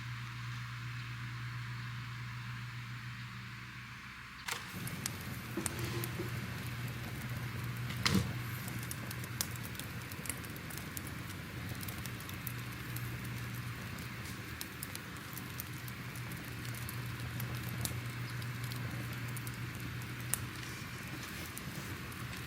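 Wood fire crackling: a steady low hum, then from about four seconds in a dense run of small crackles and pops, with one louder pop about eight seconds in.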